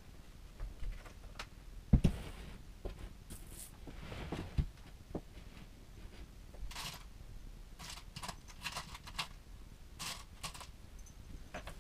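Scattered knocks, clicks and scrapes of objects being handled, with one sharp loud knock about two seconds in and a run of crisp clicks in the second half.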